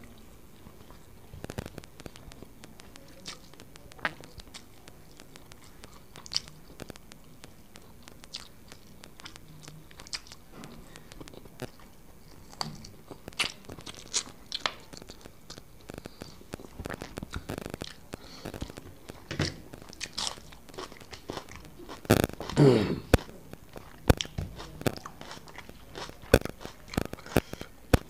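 Close-up eating sounds of rice biryani eaten by hand: chewing with many sharp clicks and crunches. One louder sound falls in pitch about three-quarters through.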